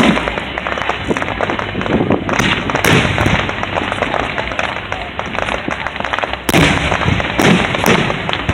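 Fireworks display: a steady crackle of rapid small reports with several louder booming bursts, the biggest about two and a half seconds in and again from about six and a half seconds on.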